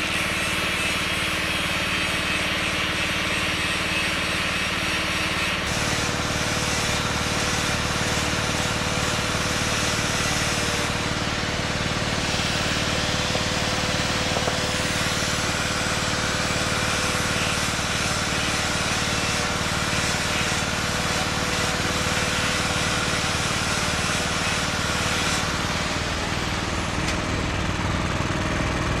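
A small engine running steadily, its sound shifting about six seconds in and again near the end.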